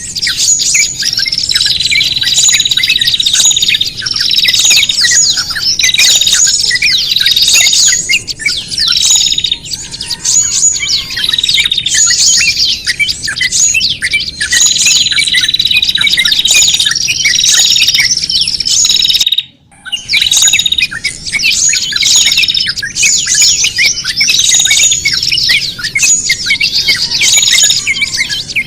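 A dense, unbroken mix of small songbirds chirping and calling excitedly over one another, with a repeated held whistle among them: a bird-lure recording of agitated, distressed-sounding small birds. It cuts out for a moment about two-thirds of the way through, then carries on.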